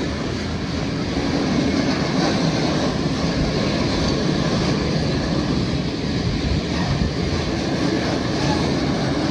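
Train passing over the level crossing: a steady rumble of wheels on the rails, getting a little louder about a second in.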